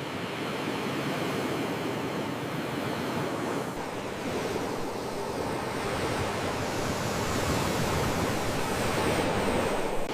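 Ocean waves breaking as a steady rush of surf, easing about four seconds in and building again toward the end.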